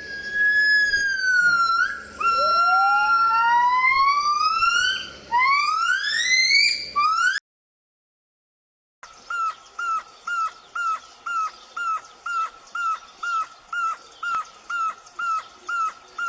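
Animal calls: several drawn-out, rising whistle-like cries overlapping for about seven seconds. Then, after a short gap, a run of short, evenly repeated calls, about two a second.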